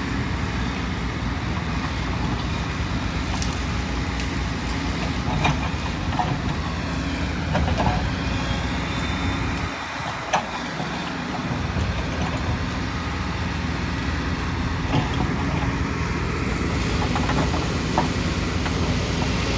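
Diesel engine of a hydraulic excavator running steadily under work, with its low hum dipping briefly about halfway through. Scattered sharp knocks and clicks sound over it.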